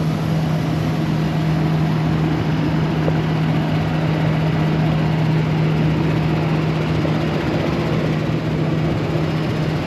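A vehicle engine running steadily, a constant low hum over a wash of noise.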